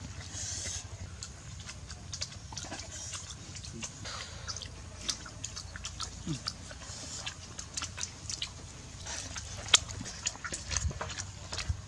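People chewing and smacking their lips while eating boiled eggs by hand, with many irregular wet mouth clicks.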